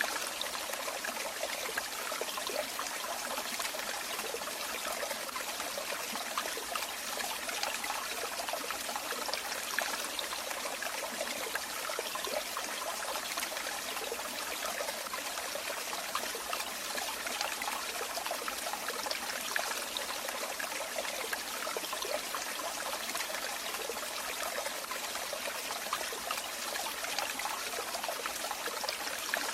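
Running water flowing and trickling steadily, a continuous splashing burble with small droplet flickers and no pauses.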